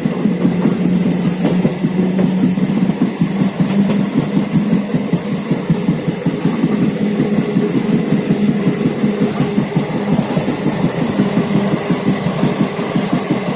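Moving train running on the track: a steady rumble and rattle with a low hum.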